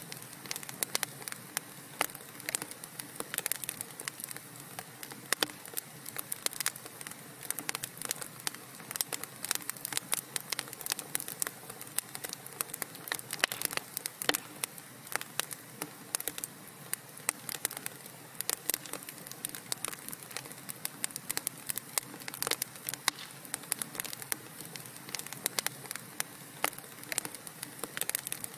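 Wood fire burning in a fireplace, with a steady hiss and frequent irregular sharp crackles and pops.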